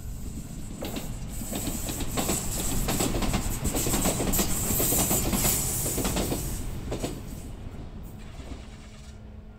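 Enshu Railway 2000-series electric train, two coupled sets, passing by: a rumble with wheels clacking over rail joints. It builds from about a second in, is loudest midway and fades away over the last few seconds.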